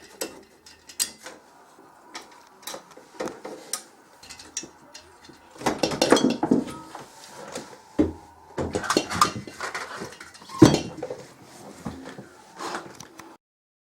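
Metal objects clinking and clattering as they are handled, with scattered clicks and a few louder knocks.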